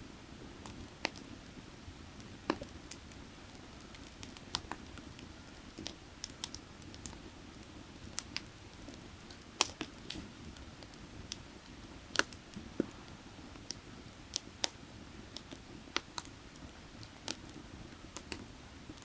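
Burning firewood crackling, with irregular sharp snaps and a few louder pops, over the steady rush of a creek.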